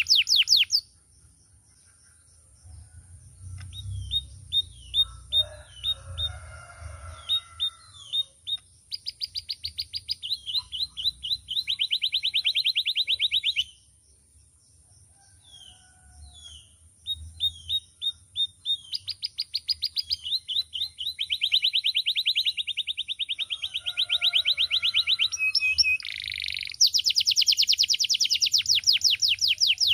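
Male domestic canary singing: long, fast trills of rapidly repeated notes alternating with short chirps, breaking off twice briefly.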